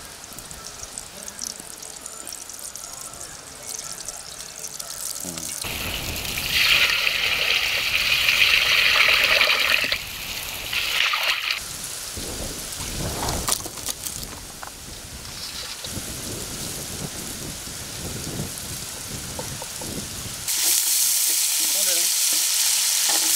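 A loud steady hiss for a few seconds partway through. Near the end, chopped vegetables and chillies sizzling in hot coconut oil in a black iron kadai over a wood fire, with a ladle stirring them.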